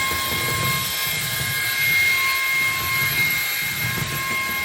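Ryobi cordless stick vacuum running, a steady motor whine with a low rumble that rises and falls about once a second.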